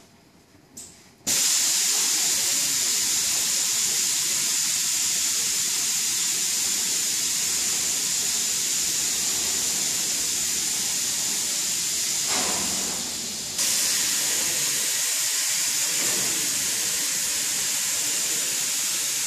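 Nozzle jets of an automatic ultrasonic cleaning machine switch on abruptly about a second in, giving a steady loud hiss. The hiss briefly drops and changes about two-thirds of the way through, then carries on.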